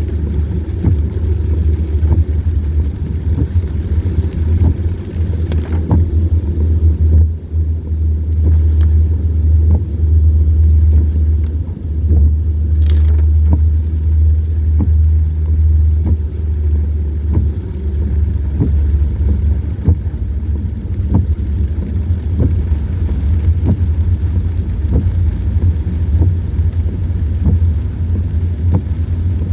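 A car's steady low road and engine rumble, picked up by a dash camera mic inside the car, with irregular sharp ticks scattered throughout.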